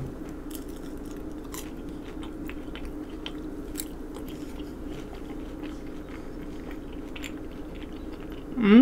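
A person chewing a mouthful of sauce-covered French fries, with small wet clicks and smacks over a steady low hum. A short hummed vocal sound comes right at the end.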